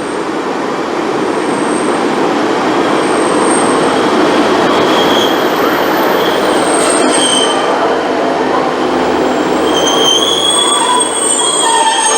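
Passenger train running through the station on jointed or curved track with a loud rumble, its wheel flanges squealing in thin high tones that come and go, more often in the second half.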